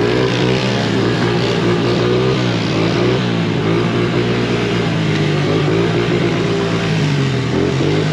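Several motor vehicle engines running together, their pitches slowly rising and falling as they rev and ease off.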